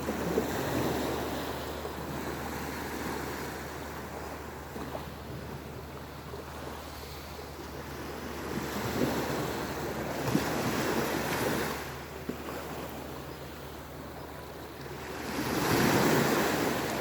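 Sea waves breaking and washing ashore, surging in three swells: near the start, around ten seconds in, and near the end.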